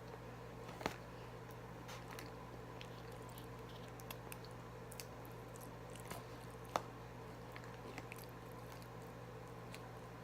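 Close-miked chewing and biting of Popeyes fried chicken, with scattered crisp crunches and two louder snaps, about a second in and near seven seconds. A steady electrical hum runs underneath.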